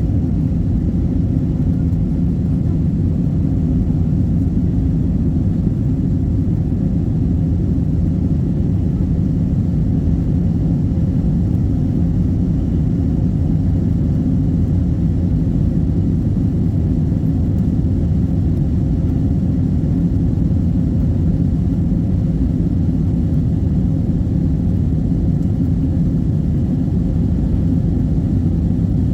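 Airbus airliner cabin noise: the jet engines and rushing air make a steady low rumble that holds even throughout.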